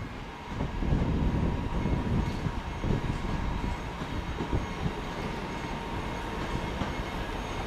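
Northern electric multiple unit moving slowly along the platform: a low rumble with a faint steady whine.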